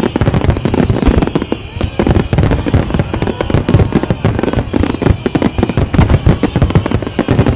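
Fireworks going off in a continuous barrage of sharp bangs and crackles, several a second.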